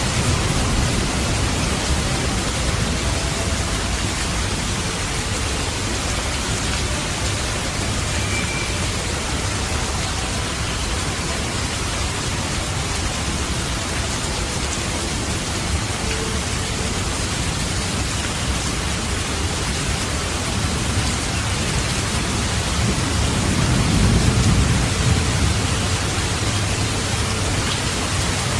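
Steady heavy rain with low rolling thunder, the rumble swelling near the end.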